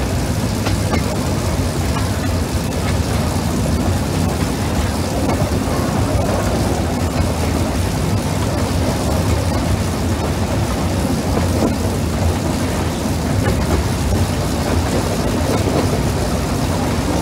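Narrow-gauge train running along the line, heard from an open-sided carriage: a steady, loud rumble and rush of wheels on rails and air, with a few faint clicks.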